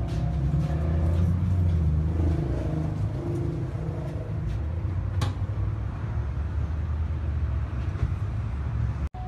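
Fire truck's engine rumbling low and steady, heaviest in the first couple of seconds, with a single sharp click about halfway through.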